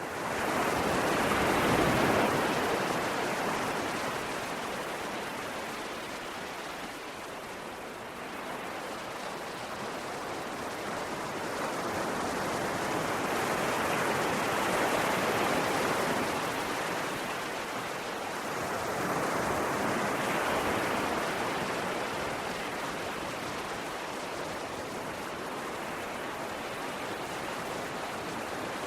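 Ocean waves washing ashore: a continuous rush of surf that swells and eases slowly, with broad crests about every several seconds.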